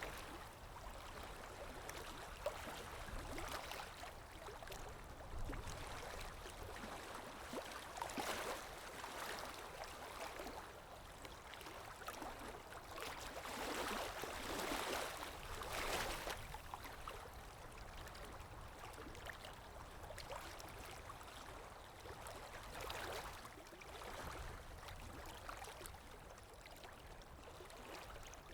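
Underwater ambience: a continuous muffled wash of moving water with a low rumble, swelling louder and fading again every few seconds.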